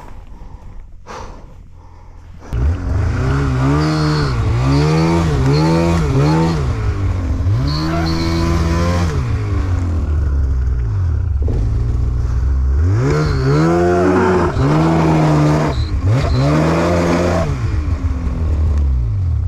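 Snowmobile engine quiet at first, then revved hard about two and a half seconds in and blipped up and down again and again, with a lull in the middle, as the rider tries to work the stuck sled free of deep snow.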